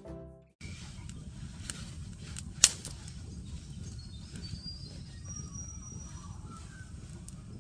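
Birds calling in the early morning: several thin, high calls and short whistles over a steady low background rumble, with a single sharp click about two and a half seconds in. Guitar music fades out at the very start.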